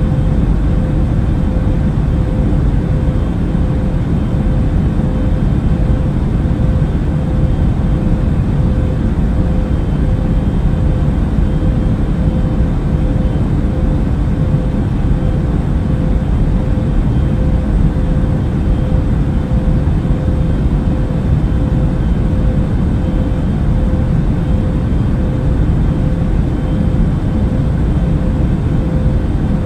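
Airplane cabin noise at cruise: a steady low rumble of engines and airflow, with a faint constant tone above it.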